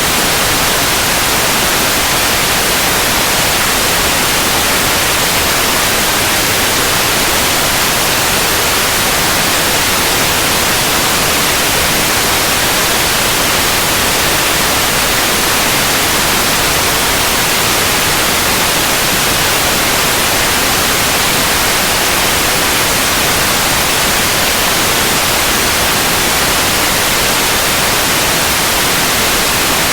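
Steady white noise: an even, constant hiss spread across all pitches, strongest in the highs, with no change.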